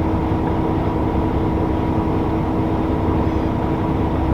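Steady low rumble of a heavy vehicle's engine running, with a constant hum over it.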